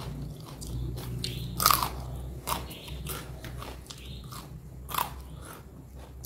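A person biting and chewing crunchy food close to the microphone: a run of sharp crunches between wet chewing, the loudest about a second and a half in and again about five seconds in.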